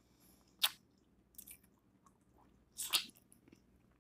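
Close-miked eating sounds: a person chewing and sucking barbecue sauce off her fingers, with a few sharp wet mouth smacks, the loudest about two-thirds of a second in and just before three seconds in.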